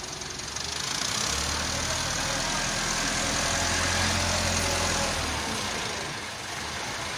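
Tractor's diesel engine running, growing louder about a second in with a strong steady low hum, then dropping back shortly before the end.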